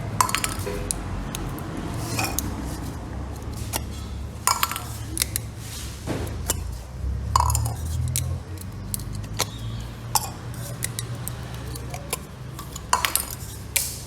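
Lug nut covers on a truck wheel clinking and clicking as they are wiggled and pulled off by hand; they are stiff to remove. A steady low hum runs underneath.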